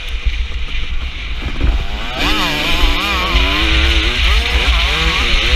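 KTM 250 SX two-stroke motocross engine being ridden hard. About two seconds in its pitch climbs sharply, then rises and falls repeatedly as the throttle is worked on and off.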